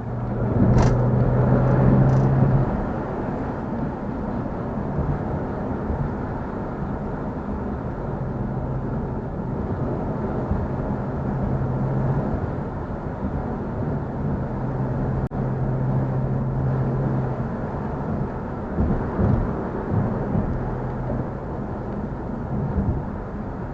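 Car engine and road noise while driving, a steady drone with a low hum that comes and goes; it swells louder for the first couple of seconds.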